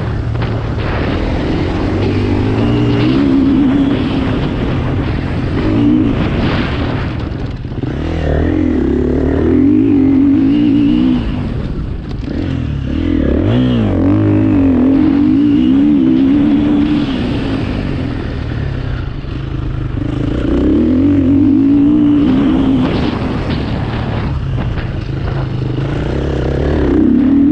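2021 KTM 350 single-cylinder four-stroke enduro bike ridden at full throttle. The engine revs climb and drop back over and over, every few seconds.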